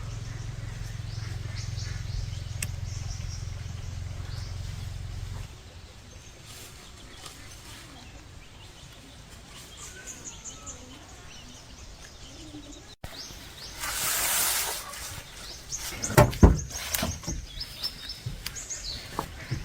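Small birds chirping, with a low steady engine hum that cuts out about five seconds in. Later comes a brief hissing burst, then a few sharp knocks near the end, the loudest sounds.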